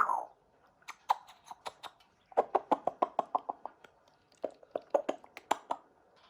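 African grey parrot making rapid sharp clicks and taps with its beak, in two quick runs of about a dozen each.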